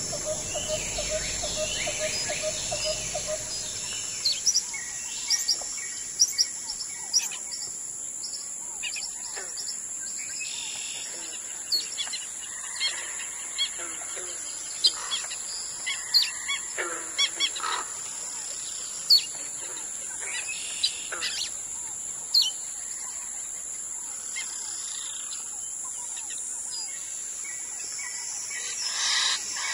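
Wild birds calling in the riverside bush: scattered short chirps, whistles and calls over a steady high-pitched drone, with a rapid pulsing call for the first few seconds.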